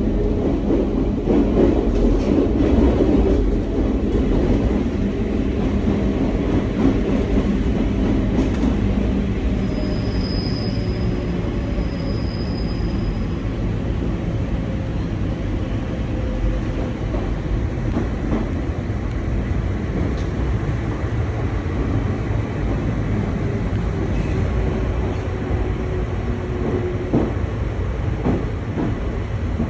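Nankai 2200-series railcar heard from inside while running: a steady rumble of wheels on rail with a motor hum, and two short high-pitched wheel squeals about ten and twelve seconds in.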